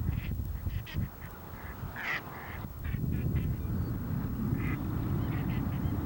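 A flock of waterfowl calling, many short repeated calls overlapping, over a steady low rumble.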